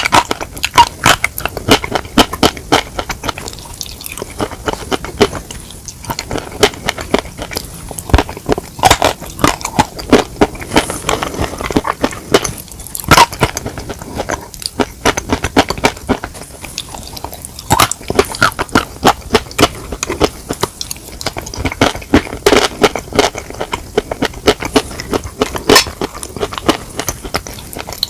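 Close-miked chewing of chicken: a dense run of wet mouth clicks and smacks with crackly crunches, several every second.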